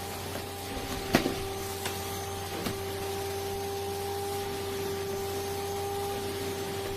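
Hoover H-ENERGY 300 cylinder vacuum cleaner running with a steady whine and rushing air, with three short knocks of the nozzle about one, two and three seconds in.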